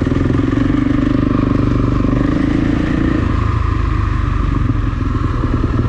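Kawasaki KX450 single-cylinder four-stroke dirt-bike engine running at a steady, fairly low speed, with no sharp revving.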